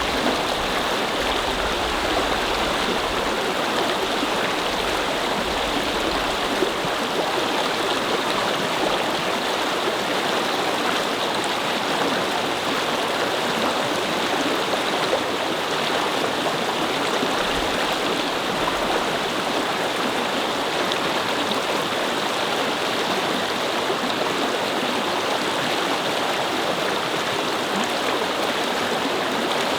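Small brook babbling and flowing steadily over stones, an even rush of water with no change in level. A faint low rumble sits under it in the first few seconds and again a little past halfway.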